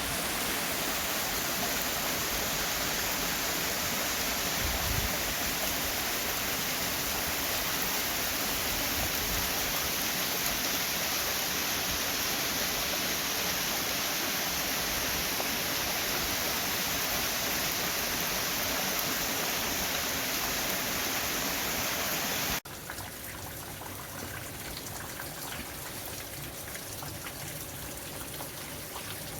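Running water in a stream, a steady rushing hiss. About three-quarters of the way through it cuts suddenly to a quieter, more trickling water sound.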